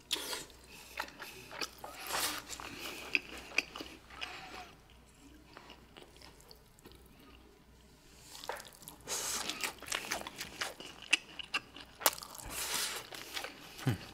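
Close-miked chewing and biting of a mouthful of hamburger steak in sauce, then rice: wet smacks and clicks in clusters, sparser in the middle and busier again over the last few seconds.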